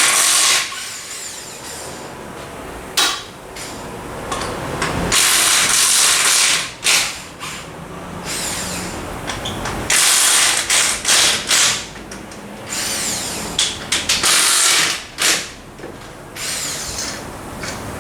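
Power wrench running in a series of short bursts, about a second or two each, loosening the wheel nuts.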